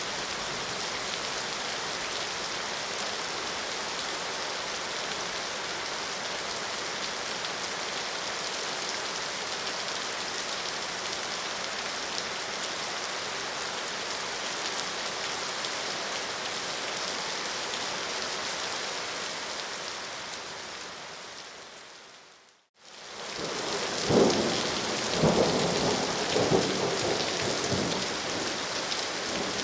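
Steady rain, which fades out about three-quarters of the way through. After a brief gap the rain comes back with several rumbles of thunder, louder than the rain before.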